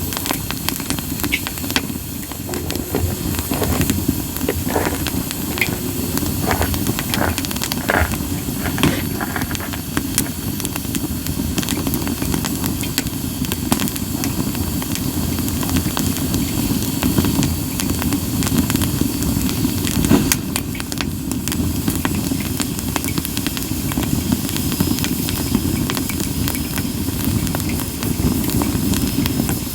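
Wood fire of split sawtooth oak (kunugi) logs burning, a steady low rush of flame with scattered sharp crackles and pops, thickest in the first third. A hiss of steam escaping from the wood runs under it, with a faint thin whistle in the second half.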